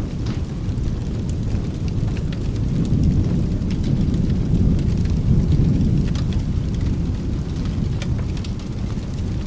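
Rolling thunder, a deep rumble that swells about three seconds in and slowly fades, over steady rain, with scattered sharp crackles from a fireplace.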